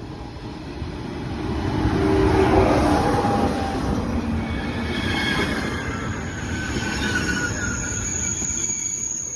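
TGV InOui high-speed train arriving and slowing, a loud rumble that swells to its peak about two to three seconds in. Squealing tones from the wheels sit over it, and a high-pitched squeal comes in near the end.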